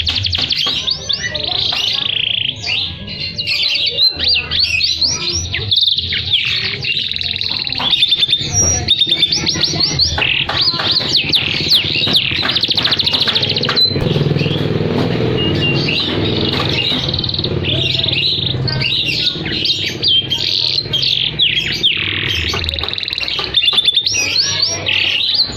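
Domestic canary singing a long, unbroken song of rapid trills and rolls, moving between high and lower notes.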